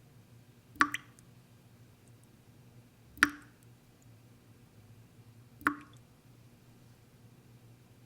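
Slow tap dripping into a sink: three single drops, about two and a half seconds apart, each a sharp plink with a short echo from the tiled bathroom.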